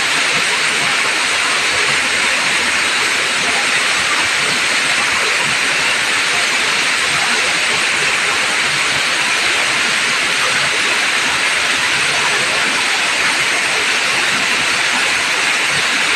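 Waterfall's water pouring and rushing as a steady, unbroken roar of spray.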